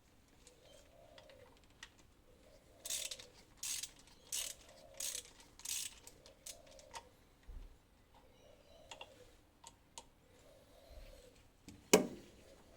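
Ratchet wrench worked in five quick strokes, about one every 0.7 s, a few seconds in, followed by scattered light clicks and one sharp metallic clack near the end.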